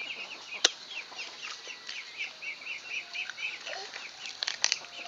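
Chickens chirping in a quick, steady run of short calls, with a few sharp crunches of bites into raw corn on the cob, one about a second in and a cluster near the end.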